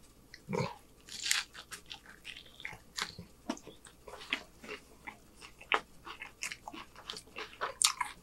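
A person chewing a mouthful of chicken street taco in a soft corn tortilla, close to the microphone: irregular wet smacks and clicks of the mouth.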